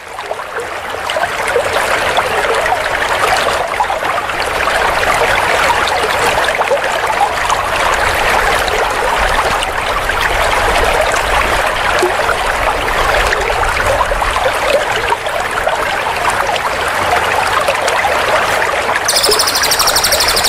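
A dense, continuous chatter of many small songbirds calling together, fading in at the start; near the end a fast, high, rapidly repeated trill from another bird joins in.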